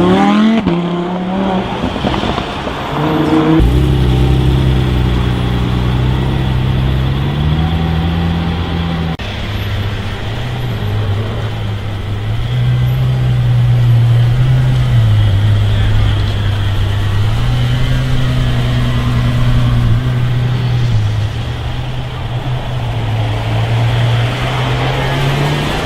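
Car engine revving near the start, then running at low revs with its note rising and falling gently.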